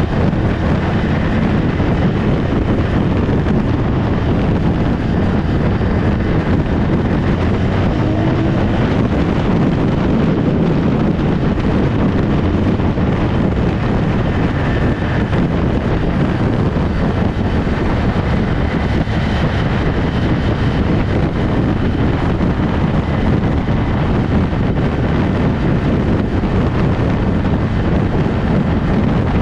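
A motorcycle being ridden, heard as a steady loud rumble of wind buffeting the camera microphone with the bike's running mixed in.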